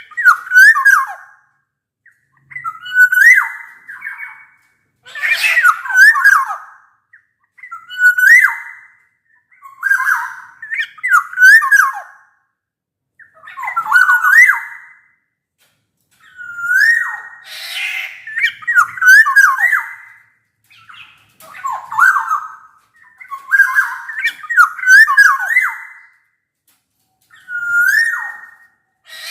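Black-naped oriole singing: short fluty whistled phrases that glide up and down, each with harsh scratchy notes mixed in, repeated every two to three seconds with short silent gaps between.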